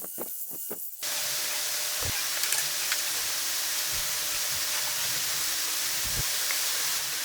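A rapid, even run of clicks, then about a second in a loud, steady hiss that starts abruptly.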